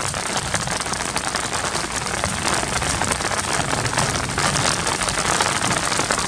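Steady rain falling, with a dense run of sharp, close individual drop hits over an even hiss.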